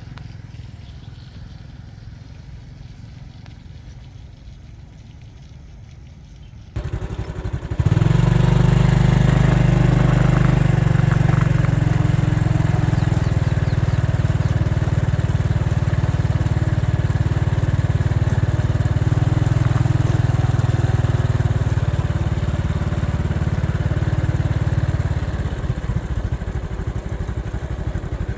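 A vehicle engine running low and quiet, then about seven seconds in it jumps to a loud, steady run that eases off slightly near the end.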